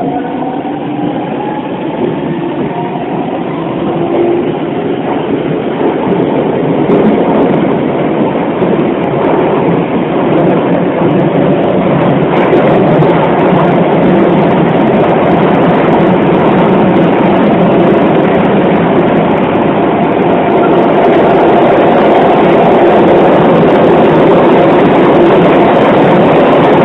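Hokuso 7500 series commuter train running and picking up speed, heard from inside the car. A faint rising whine from its Toyo Denki IGBT-VVVF inverter in the first couple of seconds gives way to wheel and rail running noise that grows steadily louder for about twenty seconds, then holds.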